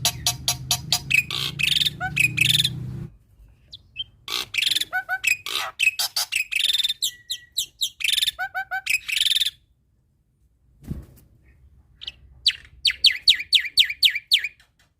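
Male jalak putih (black-winged myna) singing loudly in rapid runs of short, repeated chattering and whistled notes. The song comes in three bursts, with a complete break around ten seconds in, and ends with a fast, even string of high notes.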